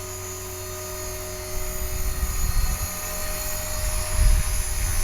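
Electric HK-450 RC helicopter (a T-Rex 450 clone) in flight, its motor and rotor giving a steady whine. A low rumble grows louder from about a second and a half in.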